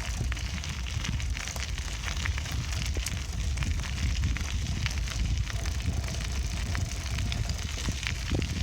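Wind buffeting the microphone of a camera riding on a moving bicycle, a steady low rumble, with a constant patter of small irregular crackles and clicks from the tyres rolling over a rough surface and the bike rattling.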